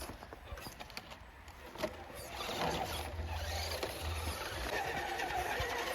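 Small electric motors of RC crawler trucks running as they drive over snow, faint at first, then a steady whine with a low hum from about two seconds in.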